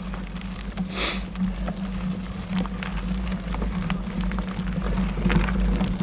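Mountain bike rolling along a dirt forest trail: steady low rumble with scattered rattling clicks from the tyres and bike over the ground, and a brief hiss about a second in.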